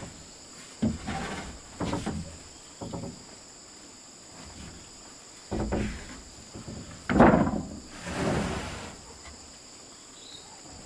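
Several irregular knocks and thuds, the loudest about seven seconds in, over the steady high chirring of insects.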